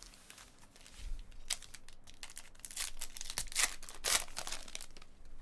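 Foil wrapper of a trading-card pack being torn open and crinkled, in short irregular crackles.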